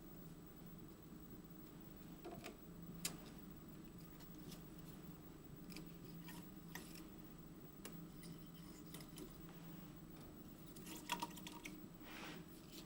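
Faint, scattered light clicks and taps over a low steady hum, with a sharper click about three seconds in and another near the end.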